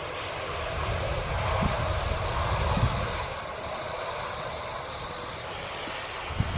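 Steady rushing roar of a burning CNG garbage truck, with a few short low thumps about two to three seconds in and again near the end.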